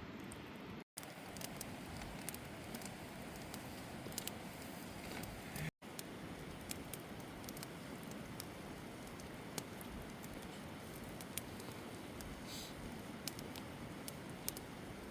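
Campfire crackling: scattered sharp pops and snaps of burning wood over a steady hiss, with two momentary dropouts to silence, about one and six seconds in.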